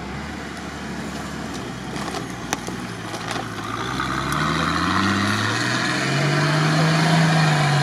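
Off-road 4x4's engine revving under load as it climbs a steep dirt slope. The pitch rises over the first few seconds, then holds at high revs, growing louder toward the end.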